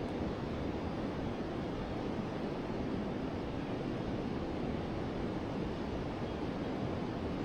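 River water flowing steadily: an even, low rushing with no breaks.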